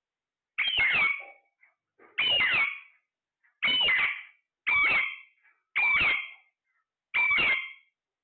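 A parrot giving six loud, harsh calls, evenly spaced about a second and a bit apart, each call falling in pitch.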